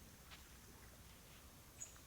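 Near silence: faint outdoor ambience with a thin, steady high-pitched tone and one short, high chirp near the end.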